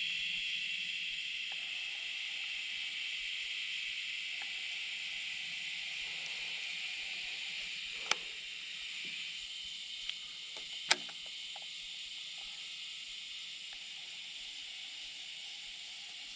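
Steady high-pitched chorus of summer insects, slowly fading. Two sharp clicks about eight and eleven seconds in are the loudest moments.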